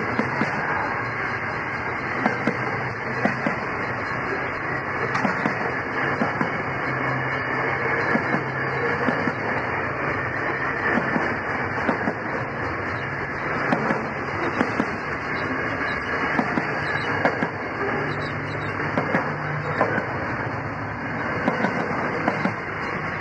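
Container freight train wagons rolling past on the track: a steady rumble of wheels on rail with frequent clicks and clanks.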